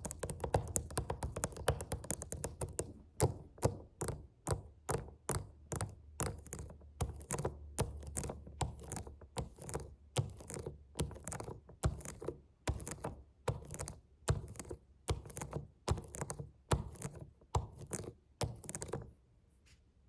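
Fingers tapping on a suitcase: a quick, dense flurry of taps, then slower separate taps about two a second, which stop near the end.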